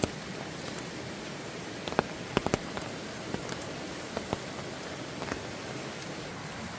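Steady rain hiss, with a few short light clicks scattered through it.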